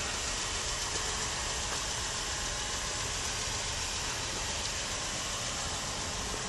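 2013 Ford Explorer's 3.5 L V6 idling steadily, a low even hum under a steady hiss.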